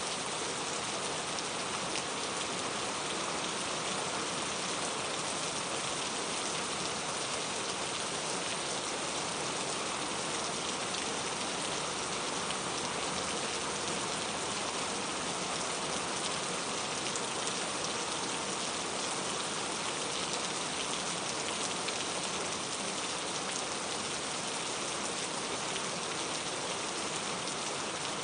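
Steady rain with a dense patter of drops, an even hiss without pauses or changes.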